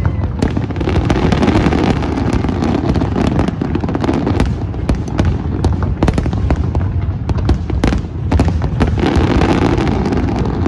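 Fireworks going off in a dense, continuous barrage: a steady rumble of booms thick with sharp bangs and crackles, with no pause.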